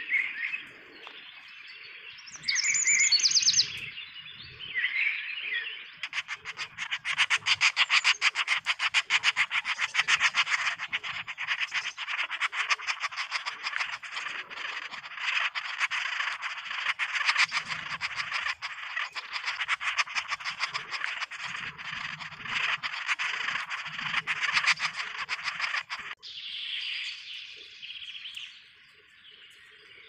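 Birds calling: a few short chirps, then about twenty seconds of fast, dense chattering that cuts off suddenly, followed by fainter calls.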